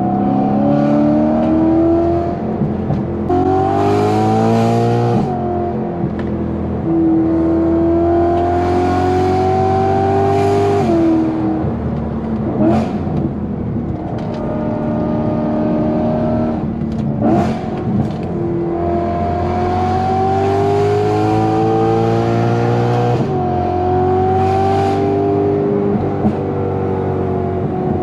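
BMW E90 M3's 4.0-litre V8 through a titanium aftermarket exhaust, accelerating in several pulls. The pitch climbs steadily through each pull and drops at each shift or lift, with a lighter, steadier stretch in the middle.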